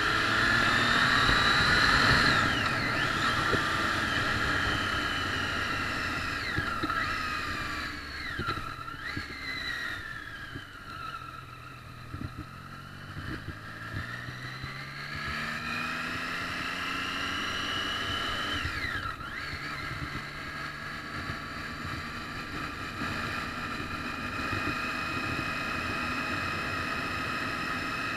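Triumph Street Triple's three-cylinder engine pulling through the gears: the revs climb and drop sharply at each upshift, three times early on and again later. In between it eases off and falls back, and it settles to a steady cruise near the end.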